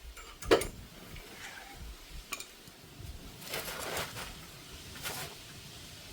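Metal tools and car parts being handled, clanking and clinking: one loud sharp clank about half a second in, a lone click after two seconds, then a run of rattling clinks and another clink near the end.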